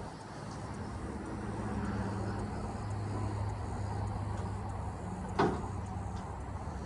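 A low engine-like hum that swells and then eases off, with one sharp knock about five seconds in.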